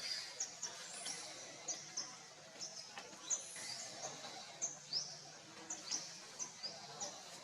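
Birds chirping: short, high notes repeated about once or twice a second, some sliding down in pitch, over faint outdoor background noise.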